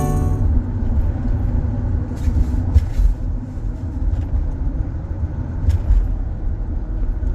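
A vehicle driving, heard as a steady low rumble of engine and road noise with a few light knocks.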